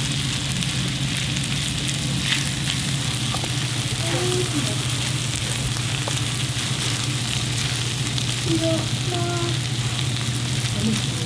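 Duck-fat fried rice sizzling in a metal pan while a wooden spatula stir-fries and scrapes through it, over a steady low hum.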